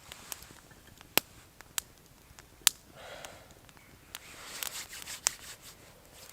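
Small freshly lit one-stick wood fire, made from feathered shavings, crackling with a few sharp, separate pops and a soft hiss between them.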